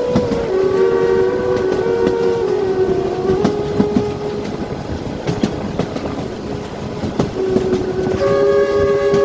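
Narrow-gauge Harz railway train running, with its wheels clicking over rail joints and a sustained tone that steps up and down between a few pitches, fading in the middle and coming back near the end.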